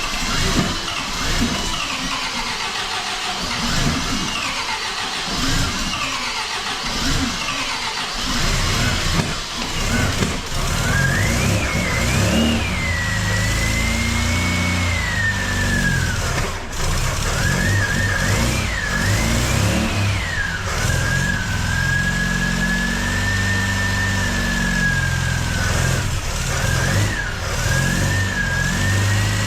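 Supercharged MGB four-cylinder engine on its first start after a rebuild, hard to start: it runs rough and uneven for the first ten seconds or so, then keeps running with the revs rising and falling. A whine rises and falls in pitch along with it.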